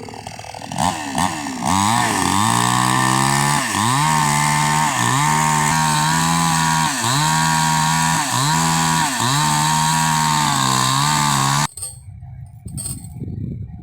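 Chainsaw cutting into a coconut palm trunk, its engine revving up and then held at high speed, the pitch dipping about once a second as the chain bogs in the wood and recovering. It cuts off suddenly near the end.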